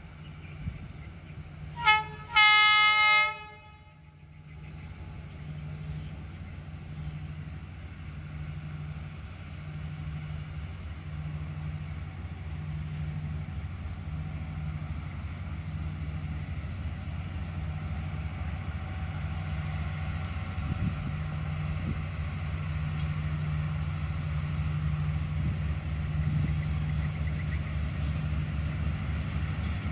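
D19E diesel-electric locomotive sounding its horn, a short toot and then a longer blast about two seconds in. After that its diesel engine runs with a low, pulsing rumble that grows steadily louder as the locomotive approaches.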